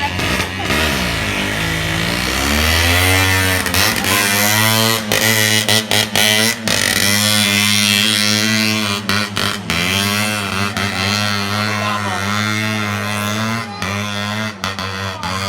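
Motorcycle engine rising in pitch over the first few seconds, then running at a steady speed, with a wavering voice or music over it.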